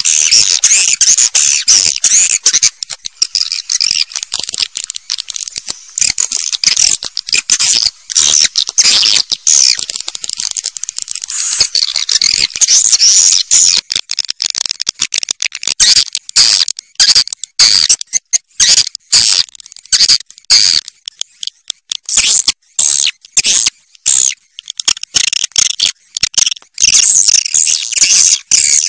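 Swiftlets calling: dense, high-pitched twittering and chittering chirps that come in rapid stop-start bursts. This is the kind of recording that is played to draw swiftlets to a nesting house.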